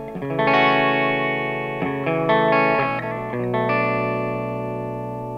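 Clean electric guitar chords on a Schecter C-1 Classic's bridge pickup (PRS No. 7) through a Steamboat Classic 18 amp. Chords are struck about half a second in, around two seconds in and at about three and a half seconds, and the last is left to ring out and slowly fade.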